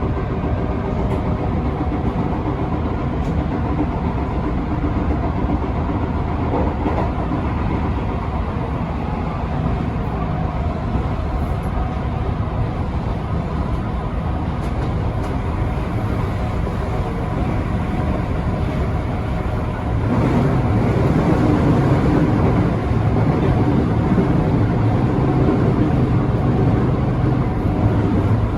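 Electric commuter train running along the track, heard from inside at the front: a steady rumble of wheels and running gear. It grows louder and deeper about two-thirds of the way through.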